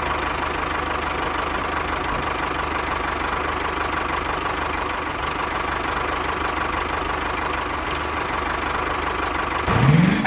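Small engine of a DIY mini tractor running steadily. Near the end its pitch rises sharply as it revs up.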